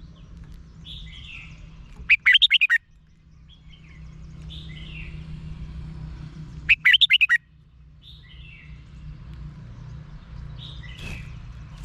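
Red-whiskered bulbul singing: a short, loud burst of quick warbled notes about two seconds in and another near seven seconds, with softer chirps between them, over a low steady hum.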